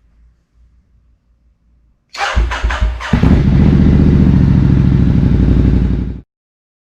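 Ducati XDiavel S's L-twin engine cranking and catching about two seconds in, then idling loud and steady through a Zard ceramic-coated exhaust fitted without silencers. The sound cuts off abruptly shortly before the end.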